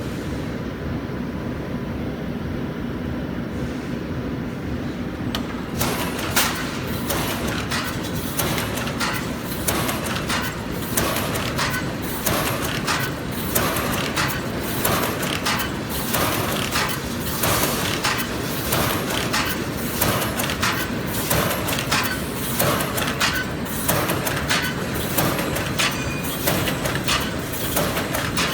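Automatic wire mesh panel welding machine running. About six seconds in, its welding cycle starts: a regular run of sharp mechanical clanks roughly once a second over a steady machine hum, as the spot-welding head strokes down on the crossed wires.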